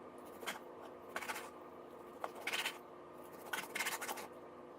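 Kitchen knife cutting raw chicken breast into cubes on a cutting board: several separate short cuts with pauses between, over a faint steady hum.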